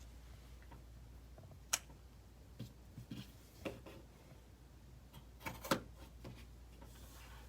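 Scissors snipping into the seam of a cotton fabric bag, a few separate short cuts: sharp snips about two seconds in and again near six seconds, with smaller clicks and handling noises between.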